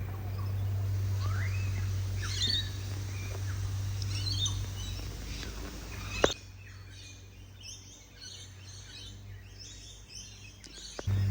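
Birds chirping and calling, many short high chirps and whistles throughout. A steady low hum runs under them for the first six seconds and stops with a click; the chirps carry on more faintly after it.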